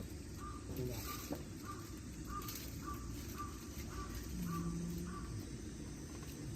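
A bird calling: a run of short, evenly spaced notes of one pitch, about two a second, that stops a little past the middle, over a steady low outdoor rumble.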